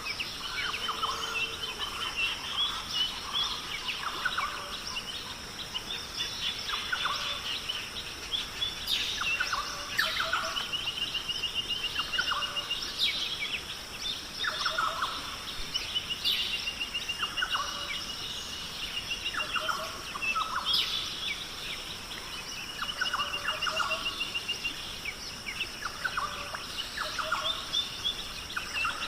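Birds calling, with short chirps and a rapid trill recurring every few seconds over a steady outdoor background.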